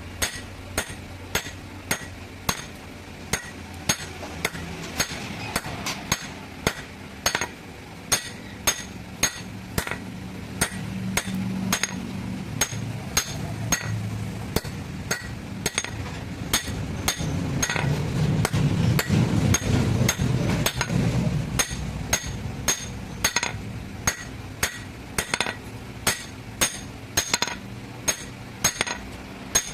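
Blacksmith's hammer striking metal at the anvil in steady blows about two a second, each with a bright metallic ring. A low rumble swells in the middle and fades again.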